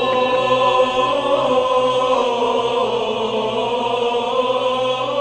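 Byzantine chant sung by a choir of cantors: long held notes over a steady low drone.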